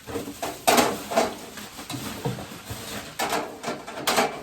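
Handling noise: a series of knocks and rustles as household objects are moved about and set down.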